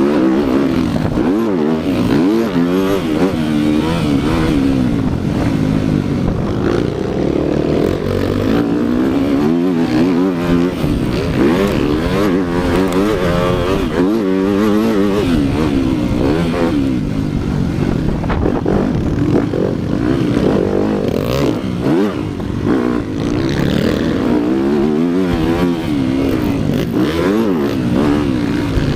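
Motocross bike engine being ridden hard, its pitch climbing and dropping again and again every second or two as the throttle is opened and closed.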